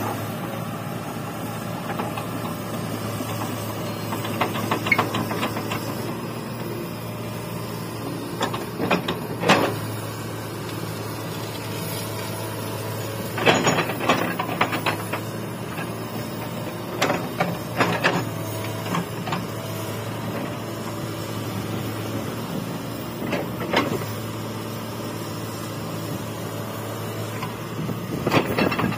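Komatsu hydraulic excavator's diesel engine running steadily while it works, with short bursts of clanks and knocks every few seconds as it digs.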